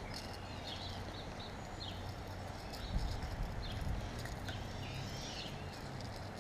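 Short, high bird chirps repeating over a steady rush of flowing creek water, with a low thump about three seconds in.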